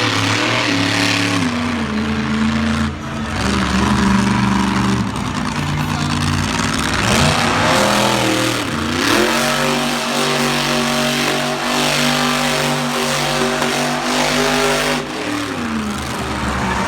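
Monster truck engine revving hard, its pitch rising and falling with the throttle. Past halfway it dips and climbs again, holds high for several seconds, then drops off near the end.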